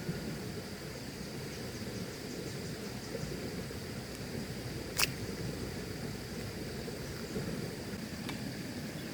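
Steady rain noise on a camp shelter, with a thin high insect trill behind it and one sharp tap about five seconds in.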